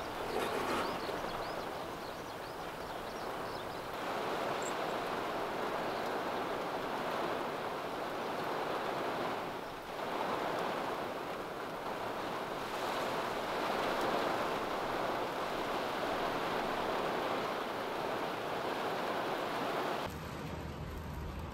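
Steady rushing of heavy rain, briefly dipping a few times. Near the end it gives way to a quieter sound with a low hum.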